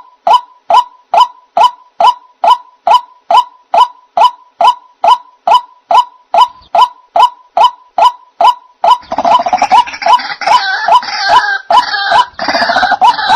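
White-breasted waterhen (ruak-ruak) calls played as a bird-trap lure: a monotonous string of short, falling 'kwak' notes about twice a second. About nine seconds in, a denser, harsher chorus of overlapping calls joins over the steady notes.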